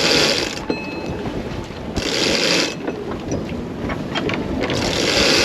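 Water rushing and splashing along a sailboat's hull under way, surging three times about two and a half seconds apart as the boat meets the waves, with wind on the microphone.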